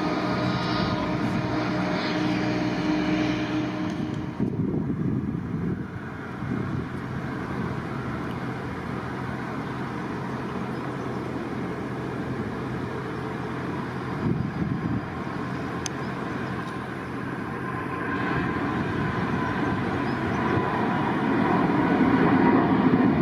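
Jet airliner engines running: a steady hum with whining tones for the first few seconds, then an even rushing roar that grows louder near the end.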